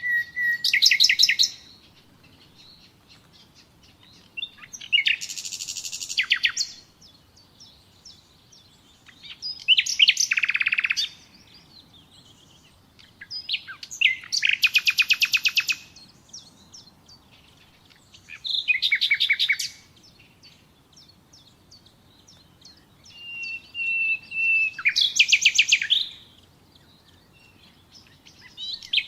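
Common nightingale singing: about six separate phrases a few seconds apart, each a fast run of repeated notes and trills, one opening with a long pure held whistle near the end.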